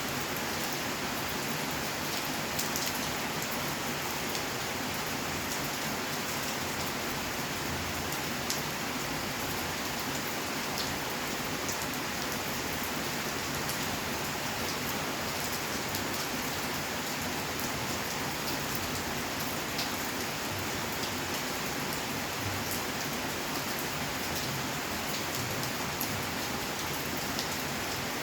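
Steady rainfall pattering on surfaces, an even hiss of rain with individual drops ticking sharply through it.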